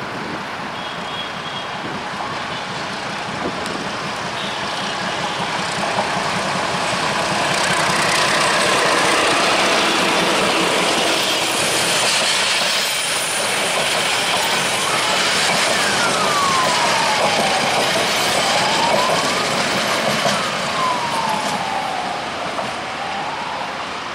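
Diesel-hauled passenger train passing close by: the locomotive approaches and goes past, then the coaches run by on the track with a steady rumble and clatter that grows loud and then fades. In the second half, high whining tones slide down and up in pitch several times.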